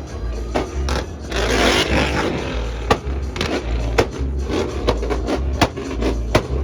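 Wind buffeting the microphone in uneven low gusts, with scraping and many sharp clicks.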